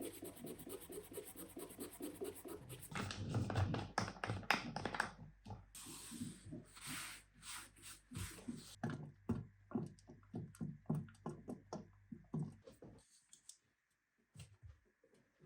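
Close-up hand-handling sounds: irregular scratching and light taps, dense at first, then sparser, fading almost to quiet near the end.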